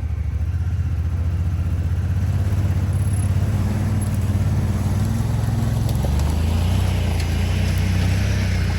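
Honda Pioneer side-by-side utility vehicle's engine running steadily under load while it tows a trailer full of firewood.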